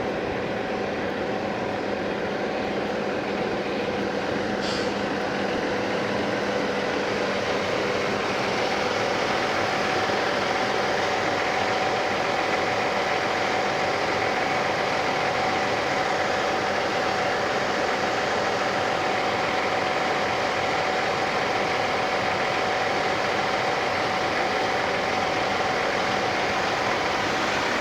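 Big-rig truck engine running steadily: a continuous drone with a constant hum, slowly getting a little louder over the first ten seconds.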